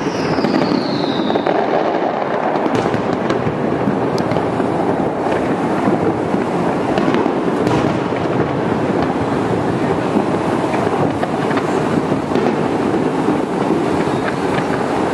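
Fireworks display heard from a distance: a continuous dense rumble with sharp cracks scattered through. A whistle falls in pitch over the first second and a half.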